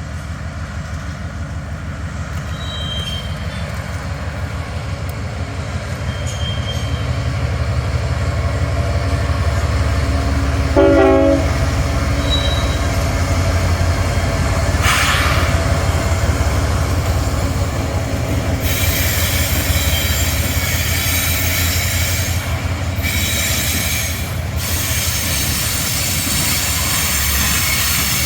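Kansas City Southern diesel locomotive moving slowly past, its engine a steady low rumble with a fast pulse. About eleven seconds in a brief pitched tone sounds. In the second half a high hiss with thin squealing from the wheels joins in.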